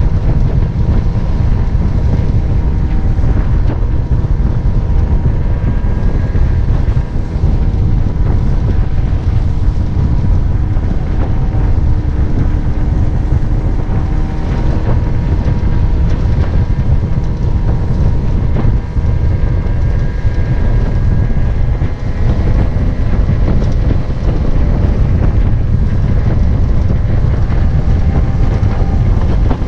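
Mini boat's Mercury 9.8 hp outboard motor running steadily under way, with heavy wind buffeting the microphone.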